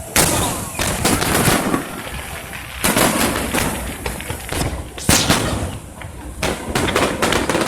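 Fireworks going off: sharp cracks at irregular intervals, with strong bangs just after the start, about three seconds in, about five seconds in and near the end, and crackling in between.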